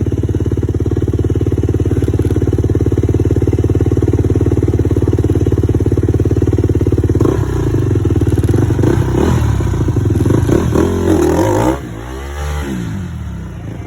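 Dirt bike engine running steadily for about seven seconds, then revved hard and unevenly as the bike is ridden at a trail obstacle. The revving falls off near the end, with the pitch gliding up and down.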